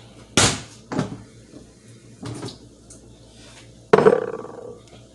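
Dishes and kitchenware being handled: a few separate knocks, then a louder clatter about four seconds in that rings briefly.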